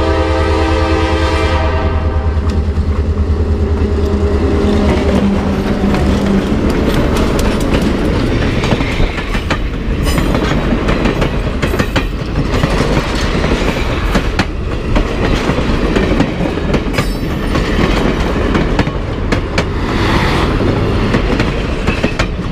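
A diesel locomotive's air horn sounds a chord of several tones and stops about a second and a half in. The locomotive's engine drones past over the next few seconds. Then the passenger train's cars roll by with a steady rumble and repeated clickety-clack of wheels over rail joints.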